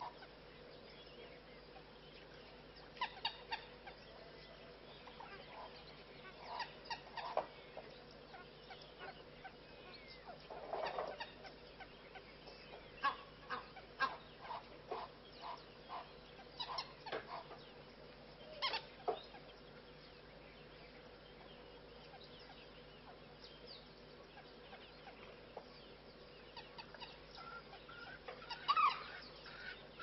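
Wild birds calling: short separate calls come in scattered bouts, busiest through the middle, with a quicker string of repeated calls near the end.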